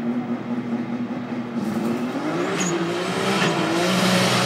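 Turbocharged BMW E46 M3 straight-six revving at the drag-strip start line: its pitch rises and falls a few times, then holds steady and grows louder near the end.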